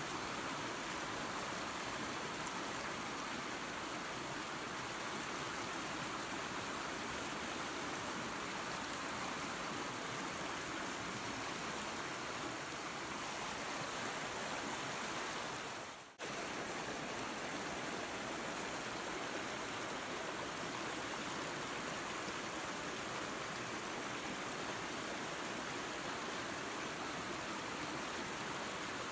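Waterfall and creek water rushing in a steady, even roar of noise. About sixteen seconds in it briefly drops away for a fraction of a second, then comes straight back.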